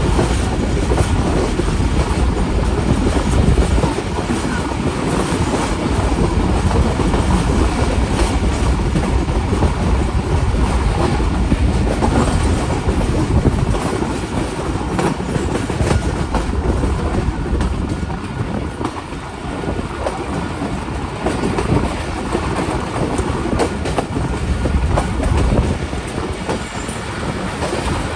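Passenger coaches of a diesel-hauled express train running on the track, heard from a coach window: a steady rumble of steel wheels on the rails.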